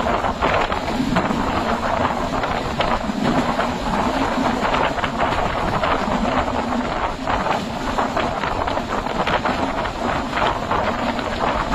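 Panchagarh Express passenger train running: a steady rumble with continual rattling and clatter.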